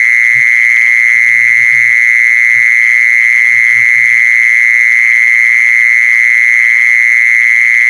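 Continuous high-pitched trill of a calling 'jee son' insect (แมงจีซอน), a single steady pitch that does not break, with faint low mumbling and hum beneath it.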